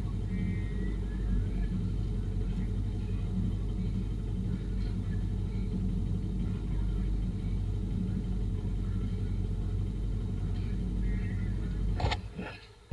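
Yamaha Fazer motorcycle running steadily under way, with engine and road rumble. It cuts off abruptly with a sharp knock about twelve seconds in.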